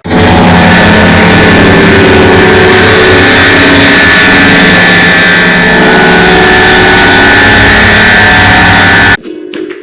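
A very loud, heavily distorted engine-like drone, steady tones over dense noise, that starts abruptly and cuts off suddenly after about nine seconds.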